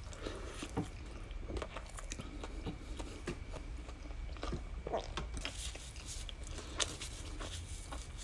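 Close-miked chewing of a soft hot dog bun dipped in melted cheese: wet, sticky mouth sounds with irregular clicks and smacks.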